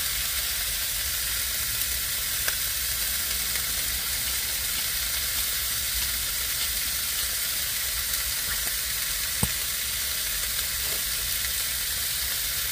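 Meat sizzling as it fries in a pan: a steady hiss, with a couple of light clicks, the sharper one a few seconds before the end.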